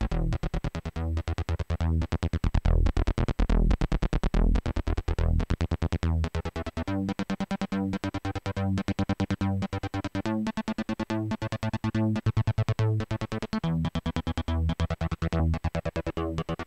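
Electronic trance riff played on synthesizers: fast, choppy repeated synth notes over a heavy bass line.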